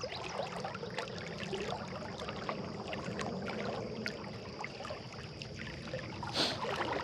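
Creek water moving and splashing: a steady wash of running water broken by many small splashes and trickles, with one louder splash about six seconds in.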